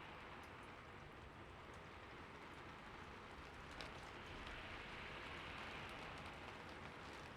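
Steady, quiet rain falling, with scattered individual drops ticking on a surface.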